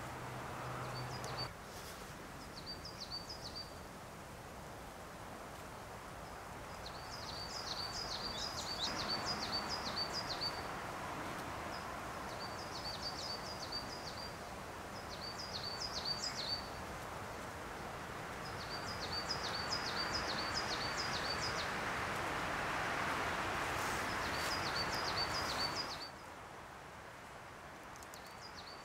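A small songbird repeating a short phrase of rapid high notes, about eight phrases in all, over a steady outdoor rushing background.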